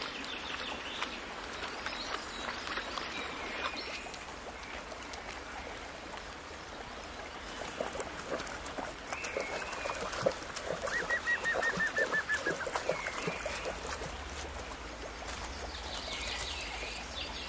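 Birds calling and chirping, with a short rapid trill about eleven seconds in.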